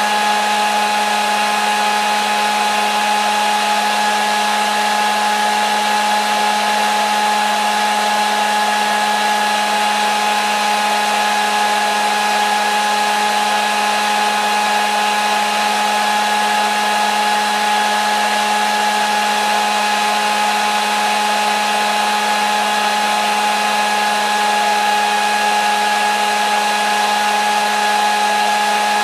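Hair dryer running continuously at a steady speed: an even rushing of air with a constant motor whine, unchanging throughout.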